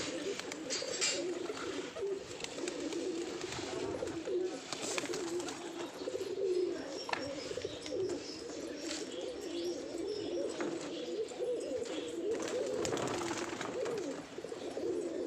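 Many birds calling at once in a continuous, overlapping chorus of low, wavering calls, with scattered short higher chirps and clicks.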